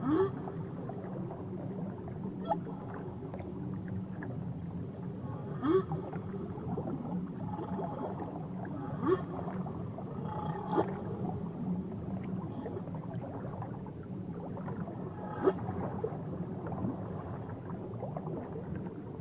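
Whale calls underwater: short rising calls and sharp clicks come every few seconds over a steady underwater hiss.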